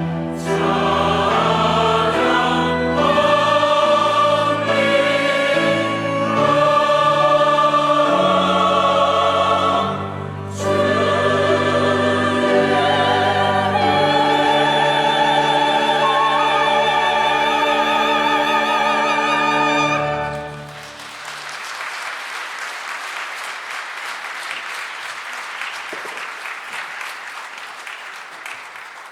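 Church choir singing with piano, organ, strings, winds and timpani, building to a loud held final chord that cuts off about twenty seconds in. Applause follows, fading away near the end.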